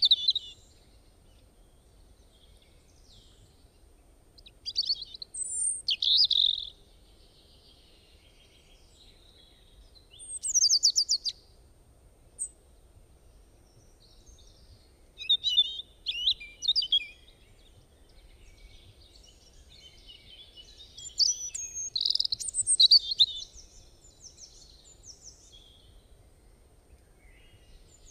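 Birds chirping and singing in short high-pitched phrases every few seconds, with quiet gaps between.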